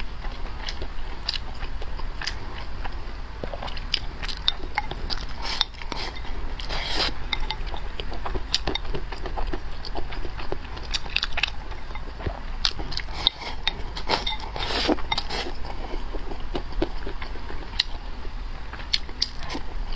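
A person eating close to the microphone: irregular bites and chewing with many sharp little clicks, and a couple of longer crunchy or slurping stretches, over a steady low hum.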